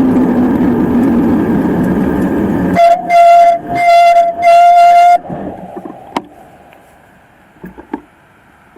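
A vehicle running with rushing wind noise, its pitch slowly falling, then a single-pitch horn sounds three loud blasts over about two seconds. After that it goes much quieter, with a few light clicks.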